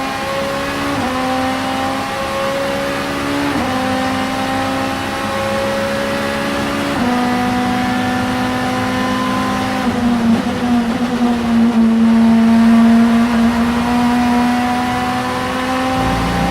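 Vauxhall Vectra Super Touring race car engine under hard acceleration. Its pitch climbs and then drops sharply with upshifts about a second in, around three and a half seconds in and around seven seconds in. After that it holds one long, slow climb in a high gear.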